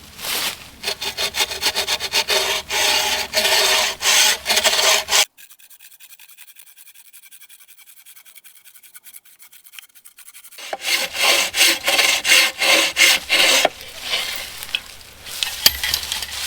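Hand saw cutting through a piece of firewood in quick, regular back-and-forth strokes. The sawing stops for about five seconds in the middle, then resumes for another few seconds.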